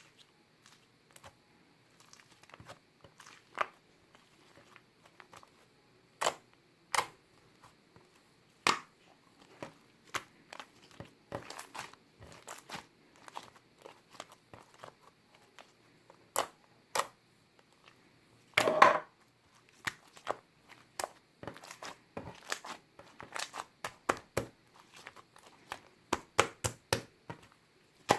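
Purple slime worked by hand: irregular sticky clicks and pops as it is pressed, stretched and folded. The pops are sparse at first and come thicker later, with one louder, longer burst about two-thirds of the way in.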